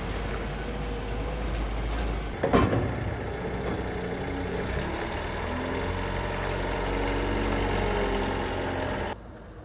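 A vehicle engine idling steadily, with one short, loud sound about two and a half seconds in. The engine sound cuts off suddenly near the end.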